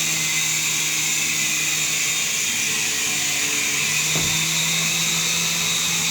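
Small indoor RC helicopter flying: the steady high whine of its electric motors with the hum of its spinning rotors, the rotor tone dipping briefly about halfway through before steadying again.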